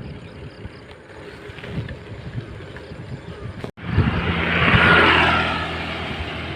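Motor vehicle engine and road noise; after a brief cut about four seconds in, a louder engine sound swells and then eases off.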